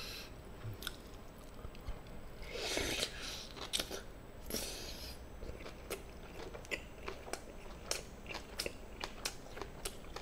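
A person chewing an overfull mouthful of spicy chicken stir-fry with rice, kimchi and chili pepper: irregular wet smacking and crunching clicks, with two short breathy hisses about three and four and a half seconds in.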